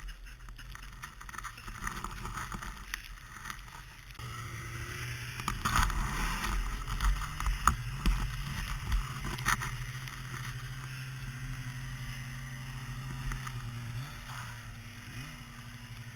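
A motor starts about four seconds in and runs steadily, its pitch climbing near the end. A few sharp knocks or scrapes come through it in the middle.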